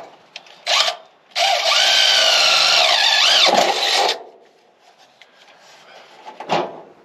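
Power drill boring a pilot hole ahead of a step bit: a short blip, then about three seconds of steady drilling, the motor's pitch wavering and sagging as the bit bites, stopping about four seconds in. A single sharp click follows near the end.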